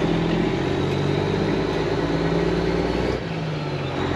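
Semi truck's diesel engine running under way, heard from the cab: a steady low engine note, with a short dip and change in pitch about three seconds in.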